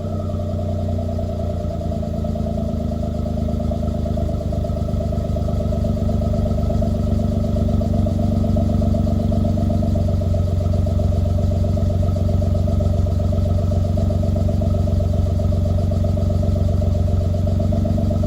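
Suzuki Kei Sport's 660 cc three-cylinder engine running steadily through a Kakimoto aftermarket muffler, which the owner takes to be a Kakimoto.R.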